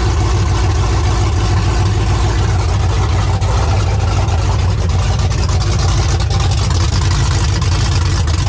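Freshly rebuilt 5.3-litre LS V8 in a GMC Sierra pickup idling steadily, a deep even rumble.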